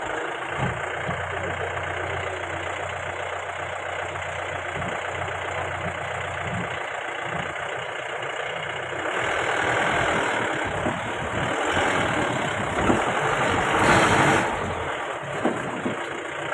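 Mahindra Bolero's diesel engine running as the SUV drives off-road. A louder rush of noise builds from about nine seconds in and peaks near fourteen seconds before easing.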